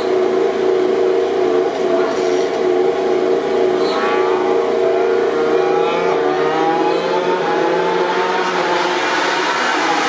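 MotoGP racing motorcycle engines: a steady engine drone, with a bike accelerating hard from about four seconds in, its pitch climbing in repeated rising sweeps through the gears.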